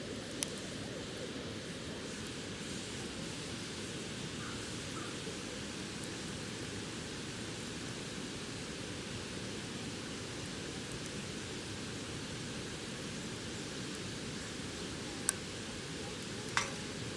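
Wood bonfire with three sharp crackling pops, about half a second in and twice near the end, over a steady rushing hiss.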